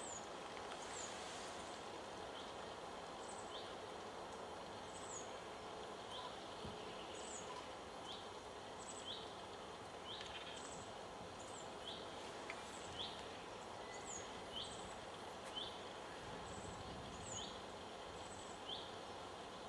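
A small bird calling with short, high chirps, repeated about once or twice a second, over a steady outdoor hiss.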